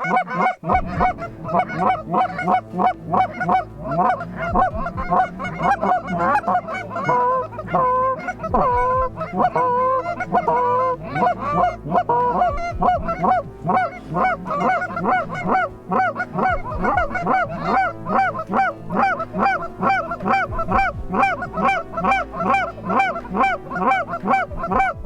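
Geese honking: many short calls in quick succession, overlapping throughout.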